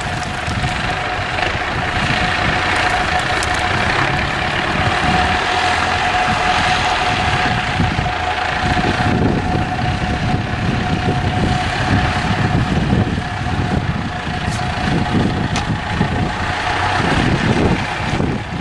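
IFA W50 4x4 truck's diesel engine running, its rumble rising and falling, with a steady high whine on top.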